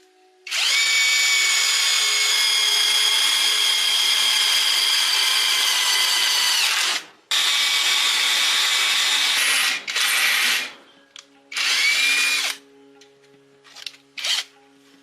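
Handheld electric power tool's motor running under the trigger: one long run of about six seconds, then several shorter runs, each winding down in pitch as it is released, and two quick blips near the end.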